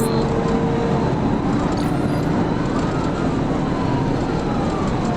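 Steady road and engine noise of a police cruiser at high speed in pursuit, with its siren wailing, slowly rising and falling under the noise.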